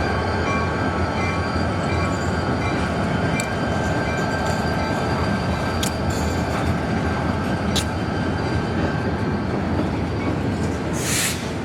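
NYS&W freight switch job moving on the track: diesel locomotive running and freight cars rolling, with a few sharp clicks from the wheels. A short burst of hiss comes near the end.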